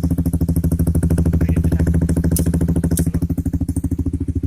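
Honda CBR150's single-cylinder engine idling steadily through a Tridente Ronin aftermarket racing exhaust, an even, unchanging run of exhaust pulses.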